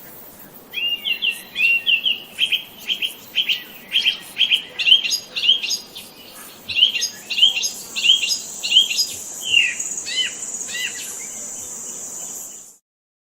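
A songbird chirping, repeating short sharp notes about two to three times a second, with a thin steady high-pitched whine joining about halfway through. Everything cuts off abruptly shortly before the end.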